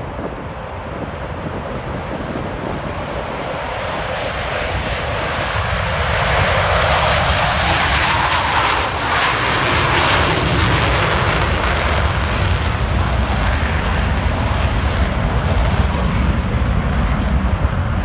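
Blue Angels' Boeing F/A-18 Super Hornet jets at full power on takeoff, their twin engines growing louder to a peak with a tearing hiss near the middle, then settling into a deep rumble as they climb away.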